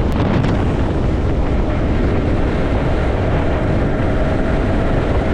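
Strong wind buffeting the microphone of a motorcycle riding at speed, a loud steady rush with the motorcycle's running underneath.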